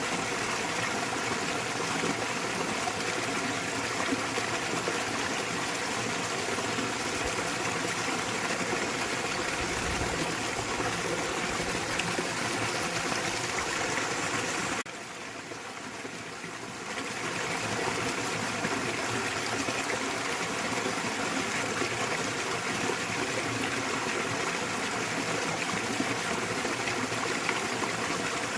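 Small waterfall in a mountain stream, water pouring and splashing steadily. About halfway through the sound drops away for a couple of seconds and then swells back up.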